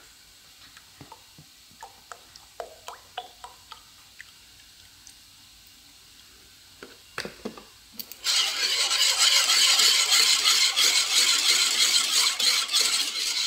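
Light taps and scrapes of a utensil in a cooking pan, then about eight seconds in a loud, steady sizzle starts suddenly as food hits the hot pan.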